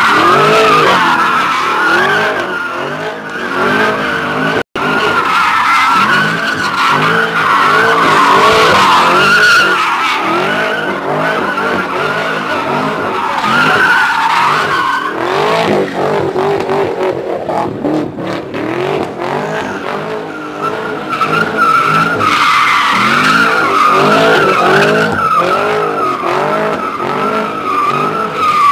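A car doing a burnout and drifting: tires squealing continuously while the engine revs up and down over and over. The sound cuts out for an instant about five seconds in.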